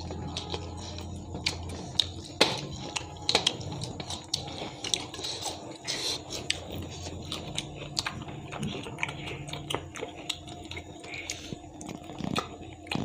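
Close-up mouth sounds of people eating fried fish by hand: chewing with frequent short wet smacks and clicks.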